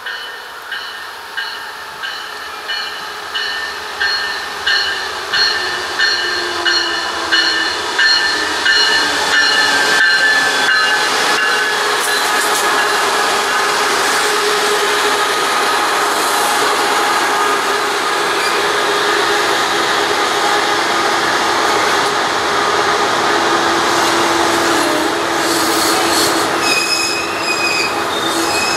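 MARC commuter train approaching and passing close by. The locomotive's bell rings steadily, about one and a half strokes a second, growing louder over the first ten seconds. Then the bilevel coaches roll past in a steady rush of wheel and rail noise, with high-pitched wheel squeal near the end.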